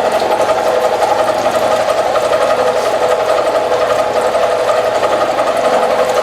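Milling machine cutting metal with a two-flute ball end mill: a steady, fast-pulsing cutting sound over a strong mid-pitched hum.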